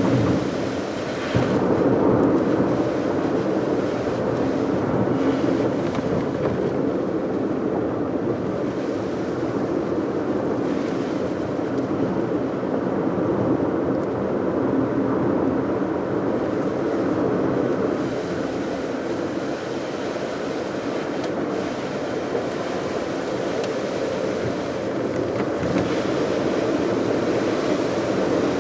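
Steady road and engine noise of a car being driven, heard from inside the cabin: an even, low rushing with no change in pace.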